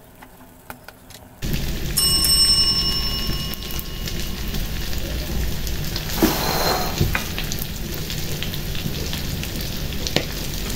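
A metal spatula clicks against the wok a few times. Then, about a second and a half in, a loud steady crackling sizzle of shrimp frying in the wok sets in. About two seconds in, a bell-like chime rings over it for a second or so.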